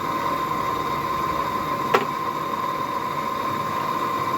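A forge running with a steady hum and one constant high whine, and a single sharp knock about two seconds in.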